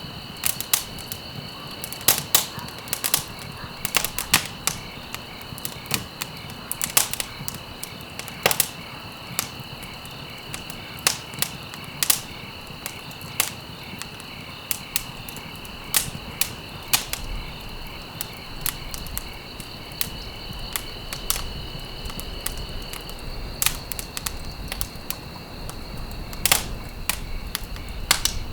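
Campfire crackling with irregular sharp pops and snaps of burning wood, over a steady high insect trill. One tone of the trill stops about three quarters of the way through.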